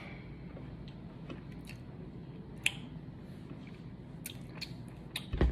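Close-miked chewing and wet mouth sounds of a person eating chicken, with scattered sharp clicks. A louder knock comes near the end.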